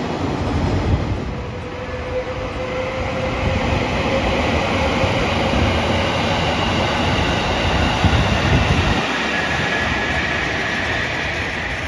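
A train running past, with a steady rumble and a thin whine that slowly rises in pitch.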